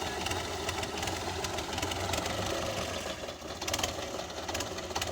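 Belarus 510 tractor's diesel engine running steadily with a low, even hum, with a few sharp clicks about three and a half seconds in.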